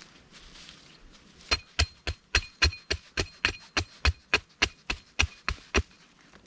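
A quick run of about sixteen blows on wood, three to four a second, each with a faint metallic ring, starting about a second and a half in: a hand tool chopping or hammering at wood.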